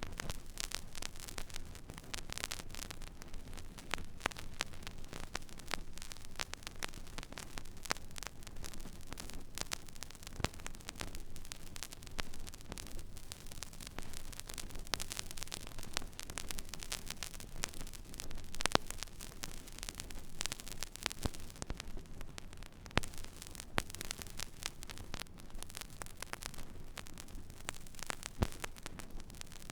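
Stylus tracking an empty vinyl record groove: steady surface hiss and crackle with many scattered clicks and pops, over a low hum.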